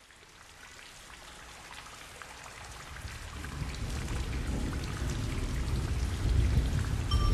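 Rain falling, with a hiss of many small drops, fading in steadily from near silence. A low rumble builds underneath it from about halfway through.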